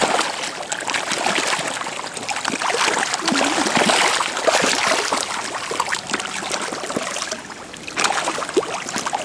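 Water splashing and lapping around a small boat, a dense, irregular sloshing with many short splashes.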